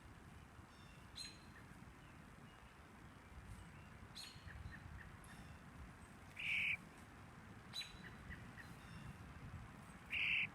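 European starling fledgling giving two short, harsh, rasping calls about four seconds apart, with fainter short chirps between them.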